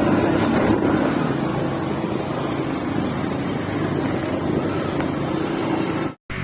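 A motor vehicle engine running steadily under a noisy rush. It cuts off abruptly near the end.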